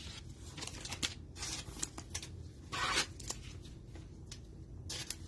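Plastic cello-pack wrapper of trading cards crinkling and tearing open, in several short rustling bursts with a few light clicks of card handling.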